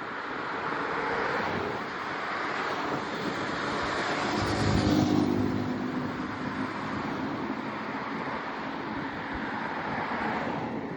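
A car passing by on the road, swelling to its loudest about five seconds in and then fading, over steady wind noise on the microphone.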